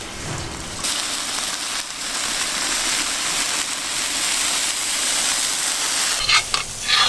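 Python meat cooking with wine in a covered pan over charcoal, sizzling as a steady hiss that starts abruptly about a second in. A few sharp clinks come near the end.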